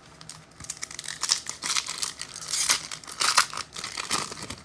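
Foil trading card pack being torn open and its wrapper crinkled by hand, an irregular run of crackling and ripping lasting about four seconds.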